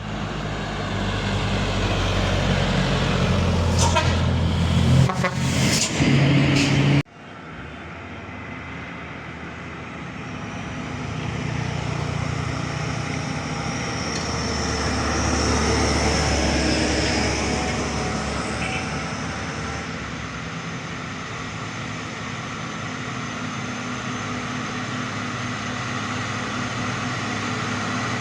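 Heavy truck engines running. A loud passage with a few sharp hissing bursts cuts off abruptly about seven seconds in, and steadier truck and traffic noise follows, swelling and easing.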